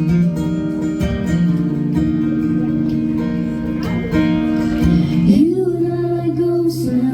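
Acoustic guitar strummed live, playing a song's intro. About five seconds in, a female voice comes in on long, wavering held notes.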